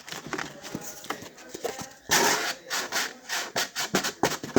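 Cardboard being handled and scraped: a quick run of rubbing, scraping and light knocking sounds, with a longer, louder scrape about two seconds in.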